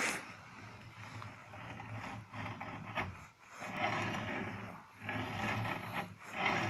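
Rough scraping or rasping strokes, several in a row, each about a second long with short pauses between.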